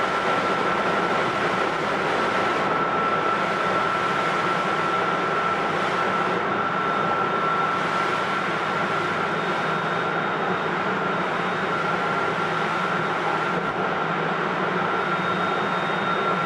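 Hokuetsu Express HK100 electric railcar running at a steady speed, heard from inside the motor car (MT68 traction motors, Mitsubishi IGBT-VVVF control). There is an even roar of wheels and running gear with a steady high tone above it.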